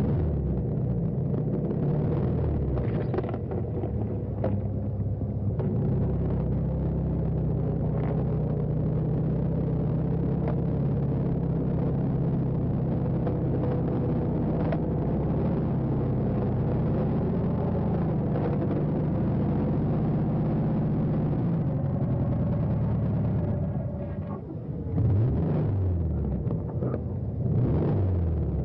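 Motor vehicle engine running steadily, with a few sharp knocks; near the end the revs rise and fall several times.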